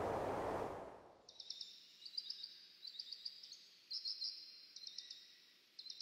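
A steady rushing noise fades out over the first second, giving way to a small bird's high, thin chirping calls in quick clusters of notes, about one cluster a second.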